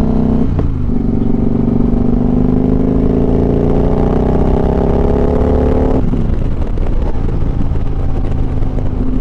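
Motorcycle engine under way, pulling through a gear with its pitch rising steadily for about five seconds after a brief break near the start. About six seconds in the engine tone drops away, leaving a rough rushing noise.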